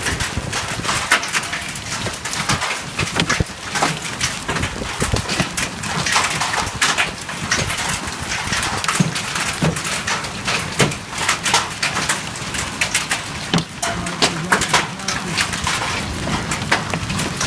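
Hailstones and rain pelting a hard surface: a dense, irregular clatter of sharp hits over a steady hiss.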